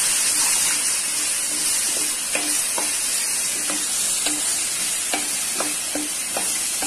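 Onion-and-spice paste sizzling in hot oil in a kadhai while a metal ladle stirs and scrapes it. The ladle taps the pan about twice a second at uneven intervals, each tap ringing briefly.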